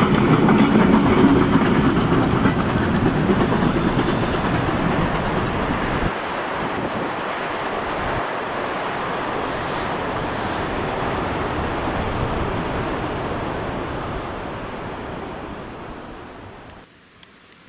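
Goods wagons of a steam-hauled freight train rolling past on the track, wheels clattering, with a brief high wheel squeal a few seconds in. The rumble then fades steadily as the train draws away.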